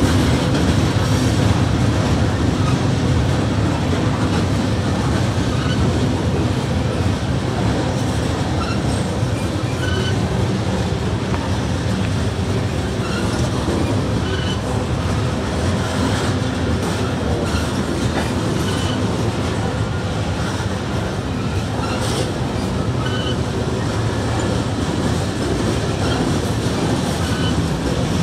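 Freight train's tank cars and covered hopper cars rolling slowly across a grade crossing: a steady rumble of steel wheels on rail.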